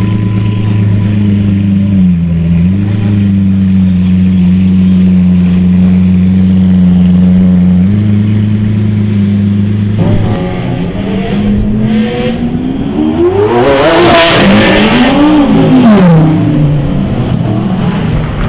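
Lamborghini Aventador V12 running steadily at low revs while rolling slowly, its pitch dipping briefly about two seconds in. From about ten seconds a sports-car engine is revved up and down several times, loudest in a rise and fall near the end.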